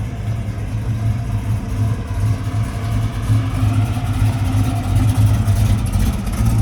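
A vehicle engine running, getting louder toward the end, with its pitch rising a little partway through.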